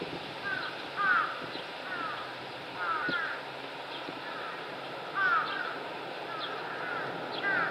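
A bird calling repeatedly: short, harsh arched notes about once a second, some coming in quick pairs.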